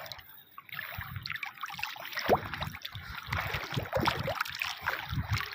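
Water splashing and trickling, an uneven wash of noise with small irregular splashes.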